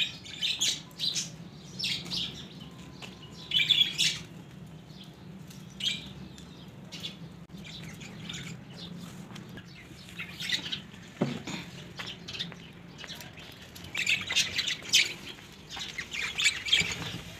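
Short, high-pitched bird chirps and squawks come and go in scattered bursts, thickest near the end, over a low steady hum.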